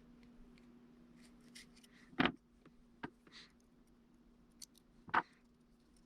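Small clicks and taps from handling tools and small drone parts during a repair, with two sharper, louder clicks about two and five seconds in, over a faint steady hum.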